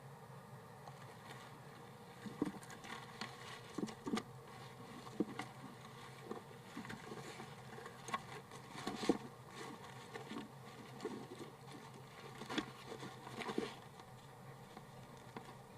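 Irregular soft scratching and tapping inside a wooden nest box, with a few sharper knocks, over a steady low hum from the nest-cam microphone.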